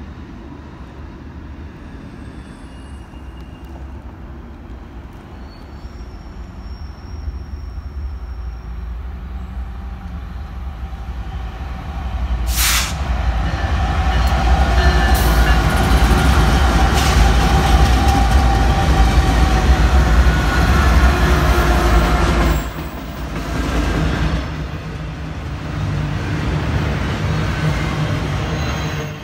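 BNSF freight train passing: its diesel locomotives grow louder on approach and are loudest for several seconds from about halfway through. The sound drops off suddenly as they go by, leaving the steady rolling of double-stacked intermodal container cars on the rails.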